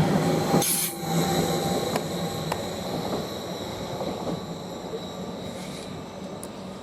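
Greater Anglia Class 745 electric multiple unit pulling out and fading away, with a short sharp hiss about a second in and a thin high whine that fades with it.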